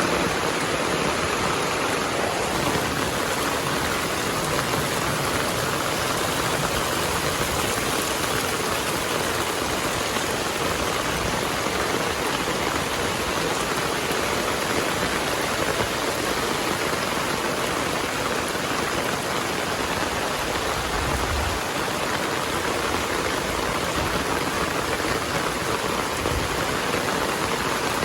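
Heavy rain falling steadily, a dense even hiss of drops on surfaces. A couple of brief low thuds come about two-thirds of the way through and near the end.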